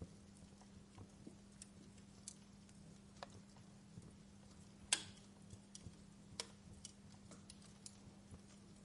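Wood fire crackling: irregular sharp pops and ticks from burning logs, the loudest about five seconds in, over a faint steady low hum.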